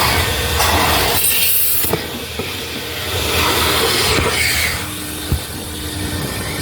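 Vacuum cleaner running while a car's interior is vacuumed: a steady rush of air whose loudness dips and swells as the nozzle is moved about, with a single light knock a little past five seconds in.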